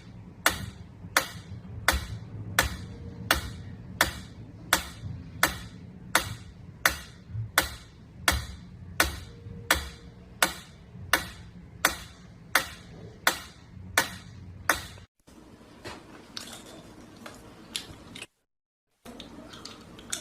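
Sharp ticks repeating at an even pace, about three every two seconds, stopping about fifteen seconds in. Then only a faint steady background with a brief dropout.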